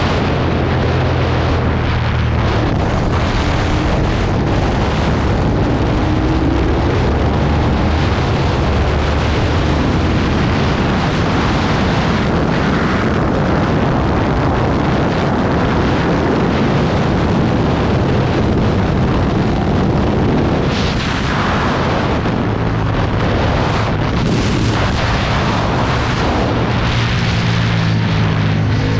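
An Aprilia Tuono V2 1000's V-twin engine pulling hard at track speed under a heavy rush of wind over the microphone. The engine pitch rises and falls as it revs through the gears.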